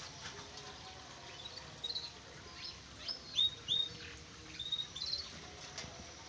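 Caged birds giving a string of short, high chirps and whistles, most of them bunched in the middle of the stretch.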